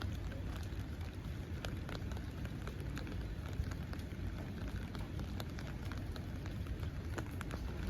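Steady rainfall, with many irregular ticks of individual drops landing close by.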